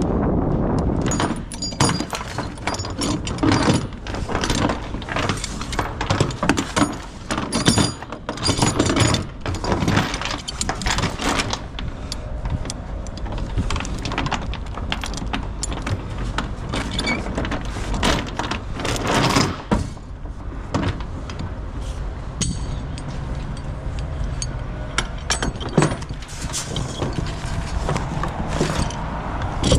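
Tie-down chains clinking and rattling in irregular clatters as they are handled, over a steady rumble of wind on the microphone.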